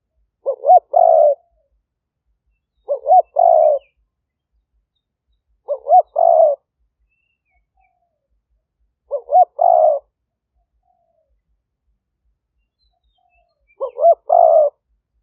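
Spotted dove cooing: five calls a few seconds apart, each a short coo followed by a longer rolling coo. This is the call used as a decoy to draw wild spotted doves in.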